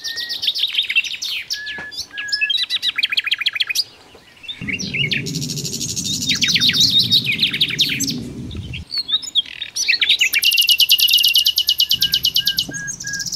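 Songbirds singing: fast, rapidly repeated chirps and trills overlapping one another, with a few short held whistles. A low rumble runs underneath for a few seconds midway.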